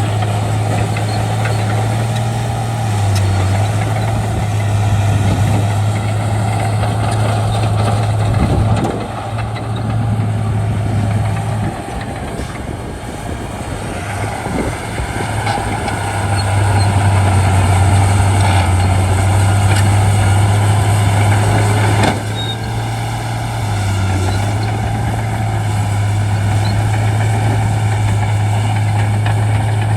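Shantui D95 crawler bulldozer's diesel engine running steadily with a strong low hum. The hum drops away briefly a few times, as the engine's load or speed changes.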